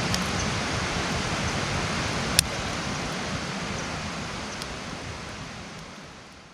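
Wood campfire burning with a steady hiss and a few sharp crackles, one loud pop about two and a half seconds in; the sound fades out near the end.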